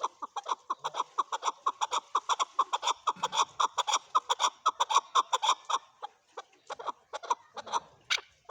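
Male chukar partridge calling, a fast run of short clucking notes, about six a second, that thins out after about six seconds before a louder, shriller string of notes starts near the end.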